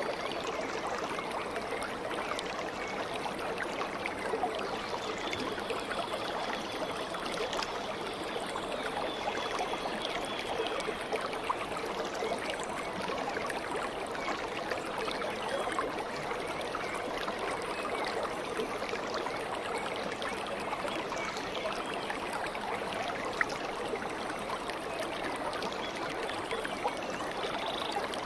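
Stream water flowing and gurgling steadily over stones, a continuous babbling rush.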